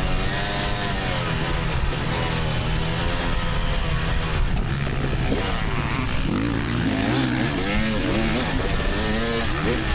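2024 GasGas EX300 two-stroke dirt bike engine under race riding, its revs rising and falling continually as the rider works the throttle, with quicker rev sweeps in the second half.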